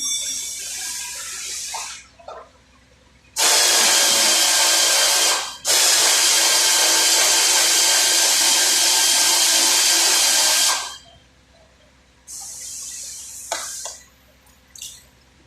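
Compressed air hissing from an air gun in bursts: a short one at the start, then a long, loud blast of about seven seconds with a brief break near its beginning, then a shorter burst near the end.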